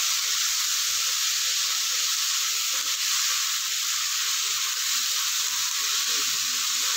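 Chopped onions and tomatoes sizzling steadily in hot oil in a stone-coated kadai while a silicone spatula stirs them.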